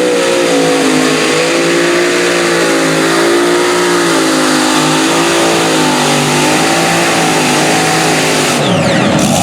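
Super modified pulling tractor engine running loud at high revs under load, its pitch wavering up and down. About nine seconds in the revs fall away sharply as the throttle comes off.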